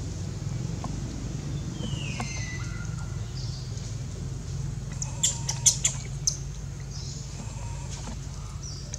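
Birds chirping over a steady low hum, with a quick run of five or six sharp clicks a little past halfway, the loudest sounds here.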